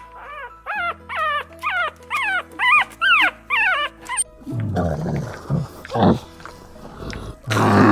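A dog yelping repeatedly, about two high calls a second, each rising then falling in pitch. Lower, rougher growling calls follow in the second half, with a louder one near the end. Background music plays under it.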